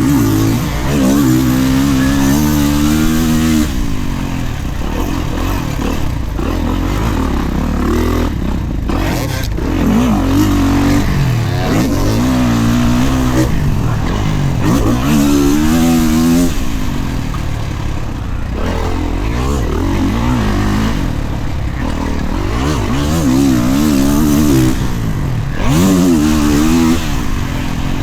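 Dirt bike engine revving hard and letting off again and again while being ridden around a motocross track. The pitch climbs and falls about every two to four seconds, over steady wind and track noise.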